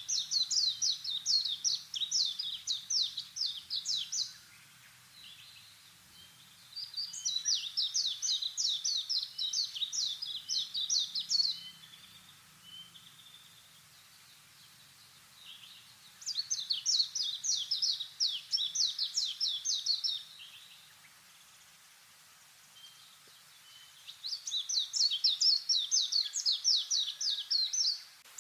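A songbird singing the same song over and over: a fast run of high repeated notes lasting about four seconds, four times, with pauses of about three seconds between songs.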